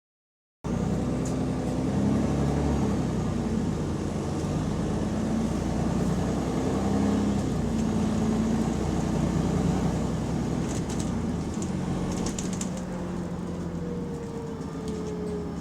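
Bus engine running under way, heard aboard, with the rough note of an exhaust leak. There are light rattles about eleven to thirteen seconds in, and a faint falling whine near the end.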